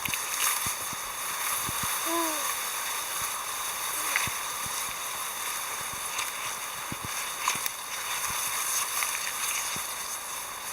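Water sloshing and splashing, with scattered light knocks and one short rising-and-falling call about two seconds in.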